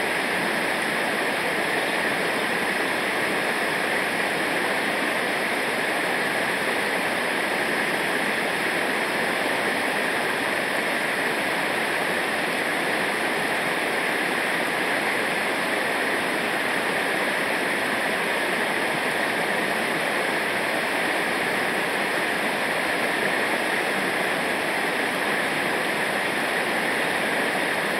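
River water rushing over rapids or a waterfall: a steady hiss that does not change.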